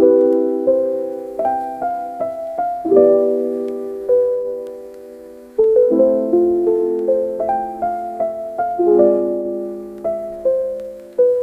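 Background music: a slow piano melody, with notes and chords struck one after another and left to fade.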